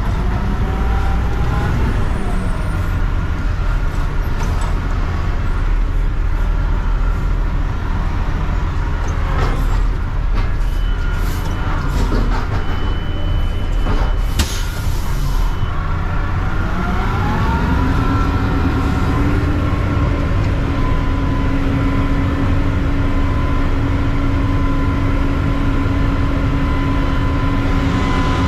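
Mack CNG front-load recycling truck running steadily, with a few short hisses and clunks partway through. About seventeen seconds in, the engine pitch rises and holds at a steady higher level.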